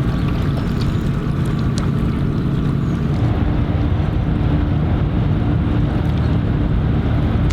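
Steady low rumble of a boat's engine, with wind buffeting the microphone; a steady hum joins in about three seconds in.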